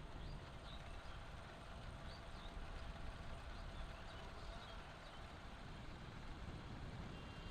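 Low, steady road and wind rumble of a motorbike ride, with a few faint high chirps.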